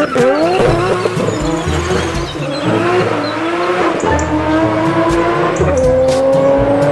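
Tuned Nissan Skyline R33 accelerating hard from a standing start. The engine note climbs and drops back at each upshift, several times in a row.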